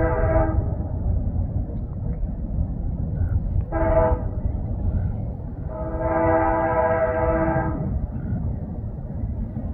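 Diesel freight locomotive's air horn sounding a several-note chord: one blast cutting off just after the start, a short blast about four seconds in, then a long blast of about two seconds. Under it, the steady low rumble of the running train.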